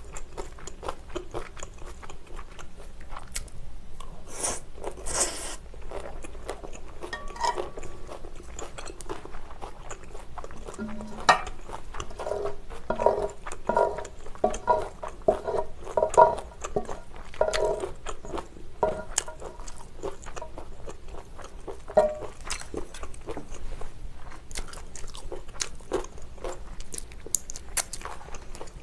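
Close-miked chewing and crunching of japchae, glass noodles with bell peppers and vegetables, with mouth clicks and smacks. Wooden chopsticks scrape and tap on a ridged grill pan while gathering the last of the food, most densely about halfway through.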